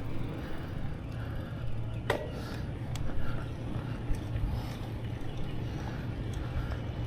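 Low steady rumble of riding a bicycle, wind and road noise on the microphone, with a couple of sharp clicks about two and three seconds in.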